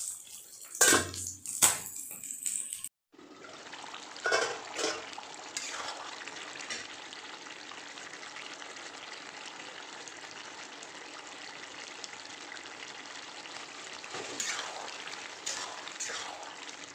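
A metal spatula scrapes and knocks against a wok. After a short break comes a steady sizzling hiss of a meat curry cooking down in its thick gravy, with a few spatula stirs in between, some just after the sizzling starts and more near the end.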